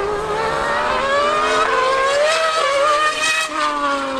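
A Formula One car and a Yamaha R1 superbike drag racing. High-revving engines climb steadily in pitch, then from about three and a half seconds in the note drops, with a second, lower engine note falling away as they pass.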